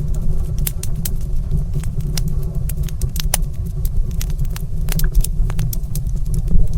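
Wood fire crackling in a stone fireplace, with frequent sharp irregular pops over a steady low rumble.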